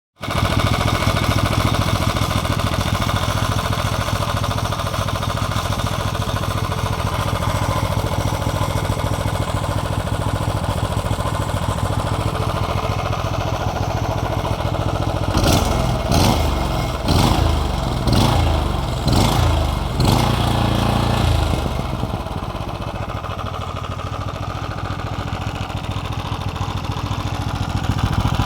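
Mitsubishi GM182P small single-cylinder gasoline engine running steadily on a test run. Midway it is revved in a series of short throttle blips, then it settles back to a lower idle.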